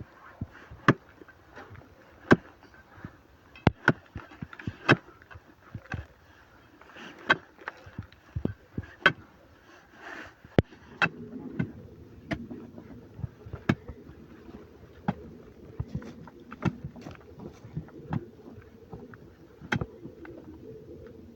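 A string of irregular sharp knocks and clicks, with a low steady hum starting about halfway through.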